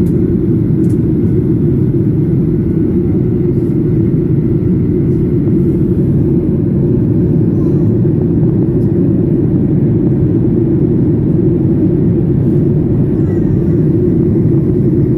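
Steady low roar of an airliner's cabin, the engine and airflow noise holding level without change.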